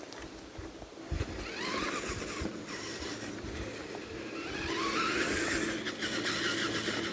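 Tamiya TXT-2 RC monster truck's electric motor and gearbox whining as it drives, rising in pitch twice as it speeds up, with a few knocks from the truck working over sticks.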